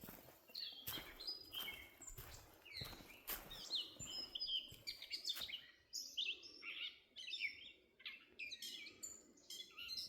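Several songbirds chirping and trilling busily, with a few short knocks in the first half.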